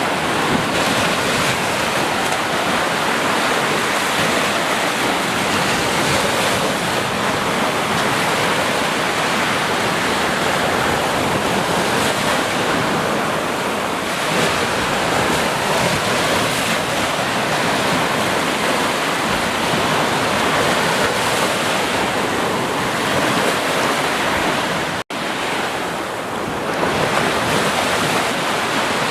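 Ocean surf: a continuous wash of waves breaking and rushing on a shore, swelling and easing slowly. Near the end the sound cuts out for an instant and comes back.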